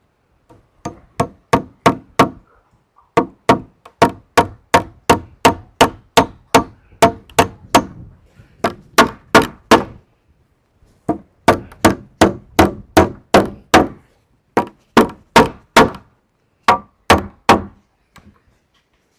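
Hammer blows on timber, about three strikes a second, in five runs with short pauses between them, as the treehouse's wooden roof frame is fastened.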